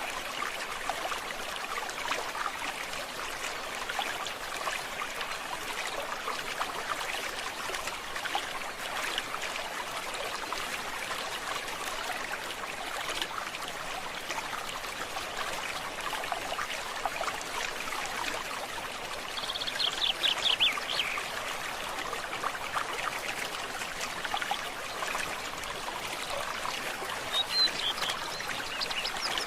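A forest stream trickling and babbling steadily. About two-thirds through, a bird gives a quick trill of falling notes, the loudest sound here, and a few short high bird notes follow near the end.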